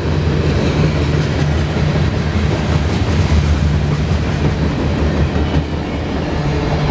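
CSX freight train cars rolling past at close range: a loud, steady rumble of steel wheels on the rails.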